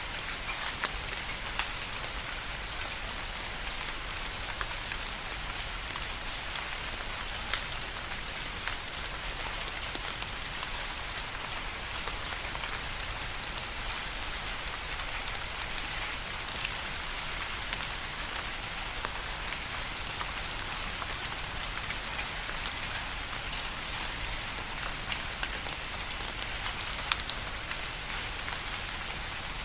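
Steady rain falling on a surface, a dense even hiss with individual drops ticking through it.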